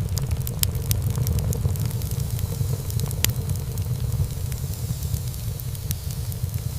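Wood fire burning in a fireplace: a steady low rumble of flames with frequent small crackles and pops of burning wood, one sharper pop about three seconds in.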